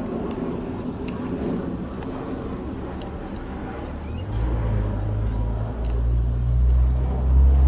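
Aeroplane passing overhead: a steady low drone, with a deeper rumble that builds from about halfway and is loudest near the end. Small scattered clicks throughout.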